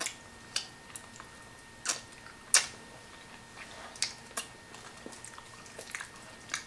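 Hard candy being eaten: scattered short, sharp clicks and crunches of candy against teeth, about half a dozen over several seconds.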